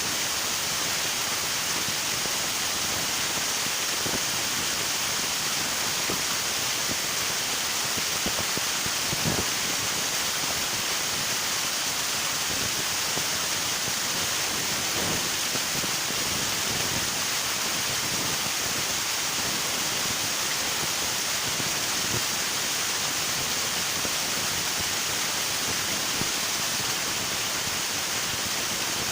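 River water rushing and splashing over rocks in a steady, even wash, with small irregular splashes, one a little louder about nine seconds in.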